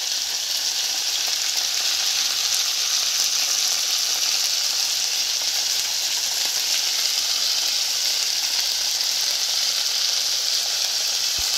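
Pork strips and fresh green beans sizzling steadily in a frying pan as they sauté, an even hiss with no breaks.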